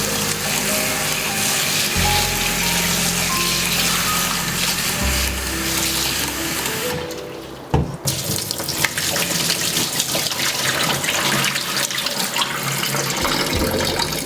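Water running from a kitchen tap into a sink, steady, breaking off briefly about halfway through with a click before running again.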